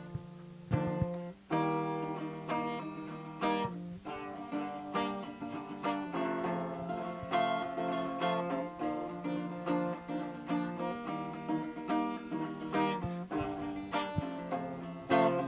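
Acoustic guitar played solo, single notes and chords picked in a flowing melody, the introduction to a song.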